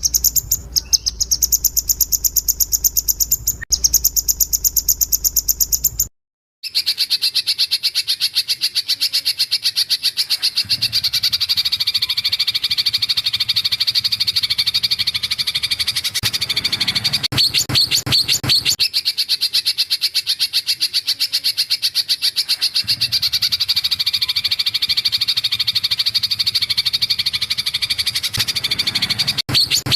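Recorded songbird song: a fast run of sharp, high repeated notes, then, after a short break about six seconds in, a long, fast, even trill of rapid rattling notes.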